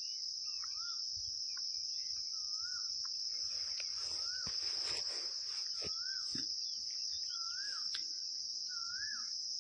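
Crickets chirring in a steady high drone, with a bird repeating a short wavering note about once a second, and a few faint clicks.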